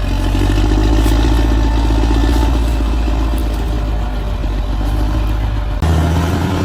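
Bulldozer's diesel engine running under load, with a rattling clatter from the tracks and blade. The engine tone changes abruptly near the end.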